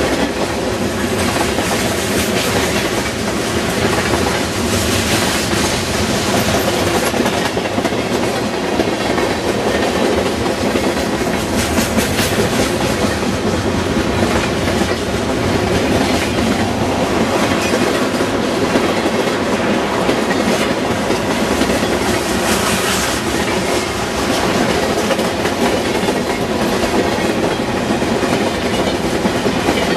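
Freight cars (covered hoppers and an autorack) rolling past close by at speed: a steady rumble of steel wheels on rail with a clickety-clack over the rail joints, briefly harsher a few times.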